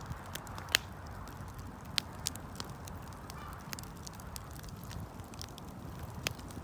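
Wood fire burning: irregular sharp pops and crackles over a steady low rush of the flames.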